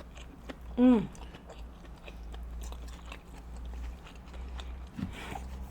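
Close-miked chewing of sushi, with small wet clicks and crunches. About a second in there is one loud, short vocal cry that falls in pitch, and a brief vocal sound near the end.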